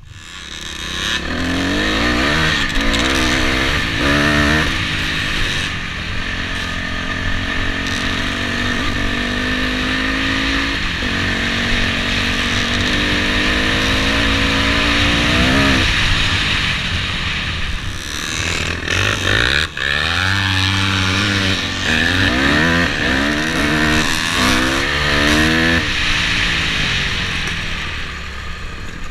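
Honda dirt bike engine under way, its pitch climbing and dropping back again and again as it accelerates and shifts gears, over a steady rushing noise.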